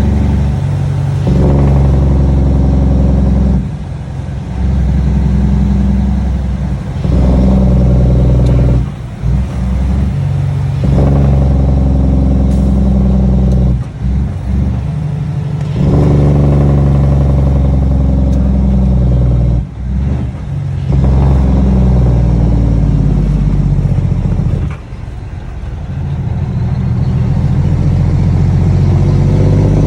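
Cummins ISX inline-six diesel on six-inch straight pipes running loud with a deep exhaust note, dropping off briefly about half a dozen times and picking back up each time.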